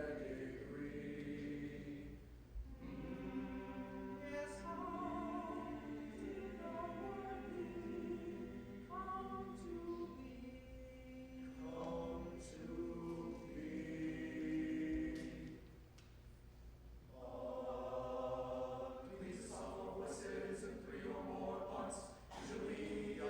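High school choir singing, in long held phrases with two short breaks between them.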